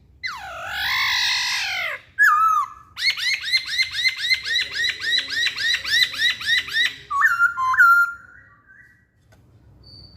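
Poksay Hongkong laughingthrush singing loud whistled song: a long swooping note that falls then rises, a short note, then a fast run of repeated rising notes, about four a second, closing with a couple of lower notes.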